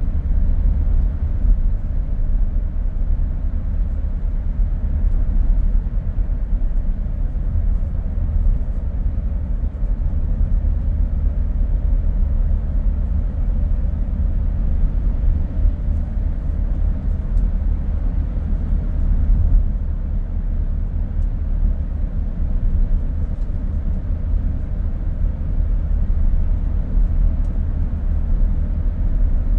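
Car driving along a road: a steady low rumble of road and tyre noise, with no sudden changes.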